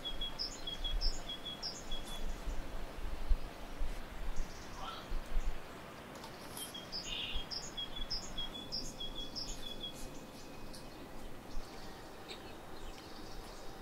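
Small birds chirping in short, repeated phrases of high notes over a steady background hiss, with low rumbling bumps during the first few seconds.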